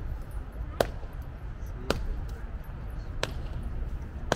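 Sharp clacks, evenly spaced a little over a second apart, four times, over a steady low rumble.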